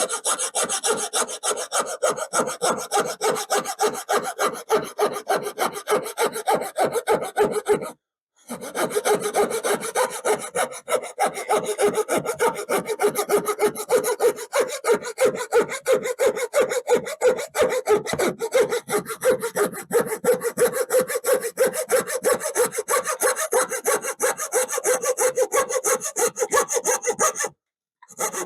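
Hand saw cutting through a wooden board with quick, even back-and-forth strokes. It stops briefly twice, once about eight seconds in and once near the end.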